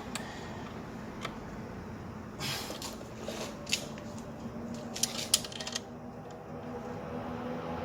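Hands working on parts in a car's engine bay: scattered small clicks and knocks with brief rustles, a cluster of sharp clicks about five seconds in, over a faint steady hum.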